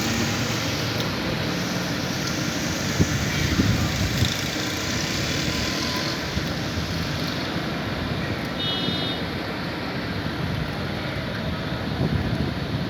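Steady hiss of rain mixed with road traffic on a wet street, with a brief high-pitched tone about nine seconds in.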